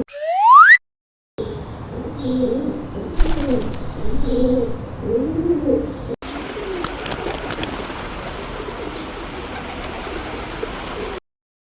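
Pigeon cooing: a run of low, repeated coos. It opens with a short, loud rising whistle-like glide, and the coos give way about six seconds in to a steady hiss with faint clicks.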